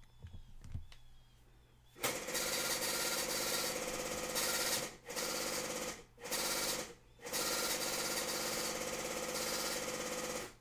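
Truck-scale ticket printer printing a weight ticket: a rapid mechanical chatter starting about two seconds in, pausing briefly twice, and stopping near the end. A few light clicks come before it.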